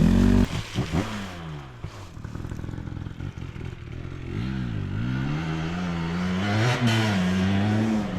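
A dirt bike engine running and being throttled: revs drop after about a second, dip and climb again around the middle, then hold fairly steady near the end.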